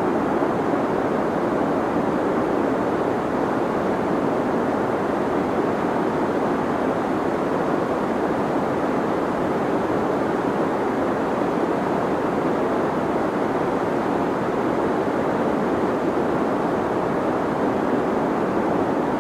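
Deep white noise: a steady, unchanging hiss-like rush, fullest in the low and middle range with little top-end hiss.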